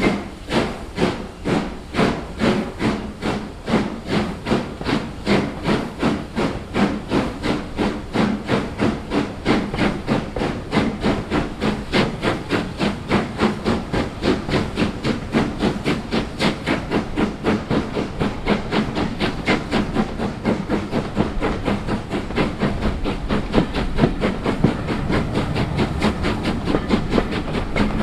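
Steam locomotive working hard, its exhaust beats chuffing in an even rhythm that quickens from about two a second to a fast, blurred beat as the train gathers speed.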